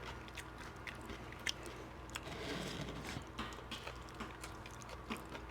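Faint chewing with small wet mouth clicks, a person eating beef rib meat, with a softer stretch of chewing about two to three seconds in.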